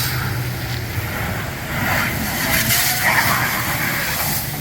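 A car-wash pressure washer runs with a steady low hum, while its water spray hisses in rising and falling waves.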